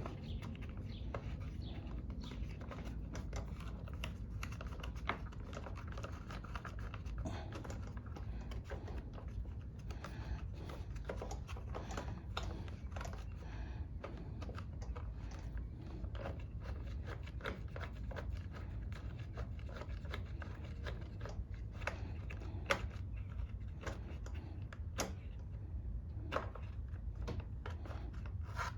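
Irregular small clicks and taps of metal parts being handled and nuts threaded on by hand as a lawnmower carburetor and air filter cover are refitted, over a steady low hum.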